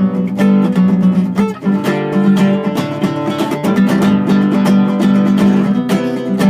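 Acoustic guitar strummed in a steady rhythm of chords, with a brief dip in loudness about a second and a half in.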